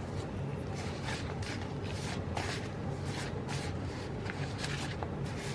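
Paper sticker sheets and planner pages being handled: short, crisp rustles and scrapes, a couple a second, over a steady low hum.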